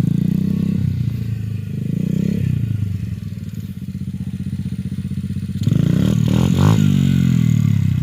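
Dirt bike engine running at low revs with brief throttle blips, then opened up hard about two-thirds of the way through, the revs climbing and falling back as the wheelie is tried.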